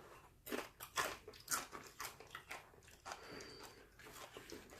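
A tortilla chip dipped in guacamole being bitten and chewed: three sharp crunches in the first second and a half, then smaller crunches as it is chewed.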